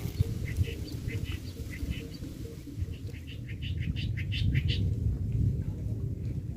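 Small bird chirping in short, quick high notes, sparse at first and then faster and louder about three seconds in, over a steady low rumble.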